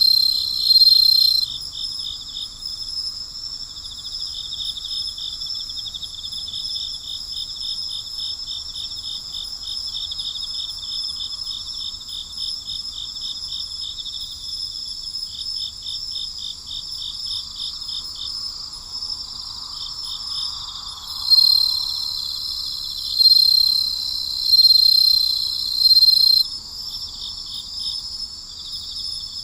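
Night chorus of crickets: several steady high-pitched trills overlapping with a fast pulsing chirp. One louder trill stands out at the start and again for about five seconds in the second half.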